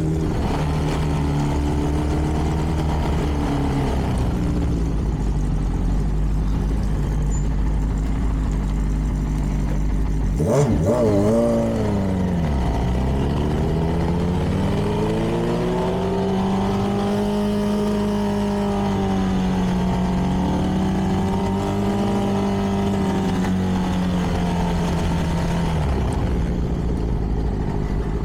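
CFMoto 300NK's single-cylinder engine running through its stock exhaust while under way. About ten seconds in the revs drop sharply and climb back with a click, as at a gear change. The engine then pulls up and holds steady revs, eases off near the end and picks up again.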